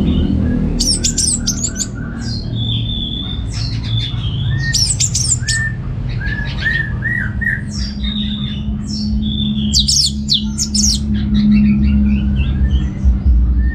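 Orange-headed thrush singing: bursts of quick, high, scratchy twittering phrases alternate with short repeated lower whistled notes, over a steady low hum.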